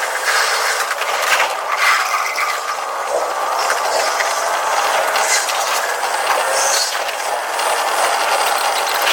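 Tokyu 5050 series 4000 subseries train running, heard from the driver's cab: steady running noise with scattered clicks of the wheels over the rails. The recording is played at double speed.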